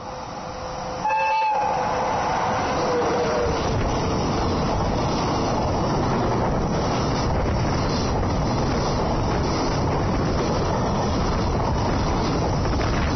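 An EF66 electric locomotive sounds its horn as it passes, and the horn's pitch falls as the locomotive goes by. Then the long freight train's container wagons run past at speed with a steady, loud rolling clatter of wheels on rail.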